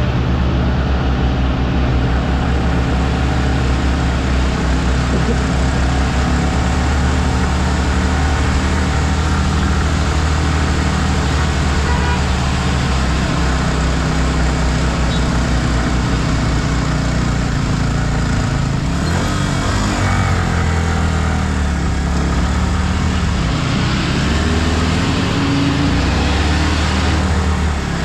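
Yamaha R15 V3's single-cylinder engine running steadily on a climbing hill road under a constant rush of noise. The engine note shifts and glides up and down in the last third.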